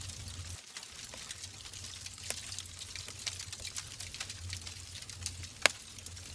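Wood logs burning in a fireplace, crackling with many small irregular pops over a low steady rumble, and one louder pop shortly before the end.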